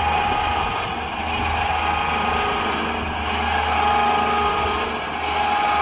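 Powered motorcycle carrier on a pickup truck running under its motor, a steady mechanical whine over a low hum, as the rig unfolds its next section.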